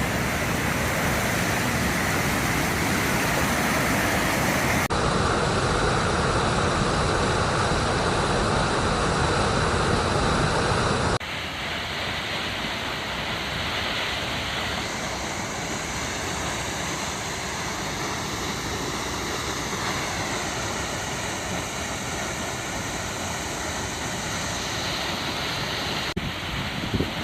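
Steady rush of the Lower Düden Waterfall, a river pouring over a sea cliff into the sea. The noise changes abruptly about five and eleven seconds in, and is quieter after the second change.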